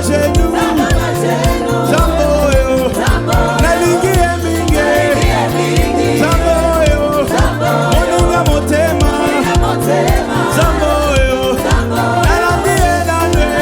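Gospel praise-and-worship music performed by a band and singers: sung melody lines gliding over a steady bass line.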